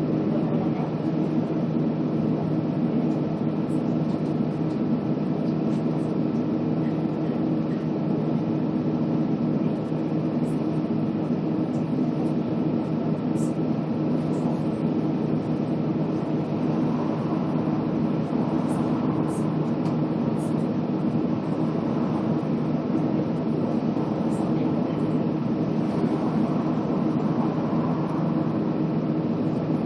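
Scania K280UB city bus's five-cylinder diesel engine running steadily, a low hum with road noise.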